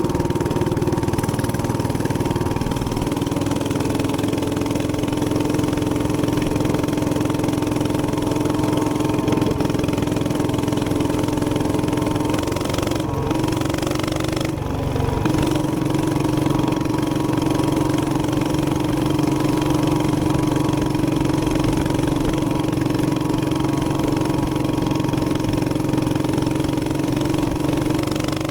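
Gas minibike engine running steadily at riding speed under a rush of wind noise. Its pitch dips briefly about halfway through, then settles a little higher.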